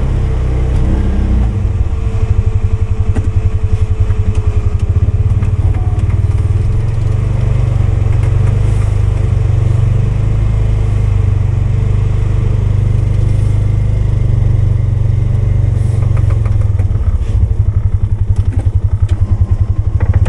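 Polaris 570 ATV's single-cylinder engine running steadily while plowing snow, with a few clunks near the end.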